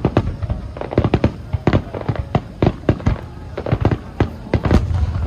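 Aerial fireworks bursting in rapid succession: a dense run of sharp bangs, several a second, over a low rolling rumble.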